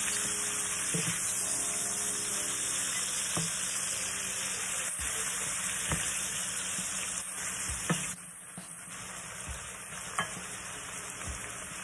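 Chicken livers and grated onion frying in butter in a skillet: a steady sizzle while they are stirred, with occasional clicks of the utensil against the pan. The sizzle turns quieter about eight seconds in.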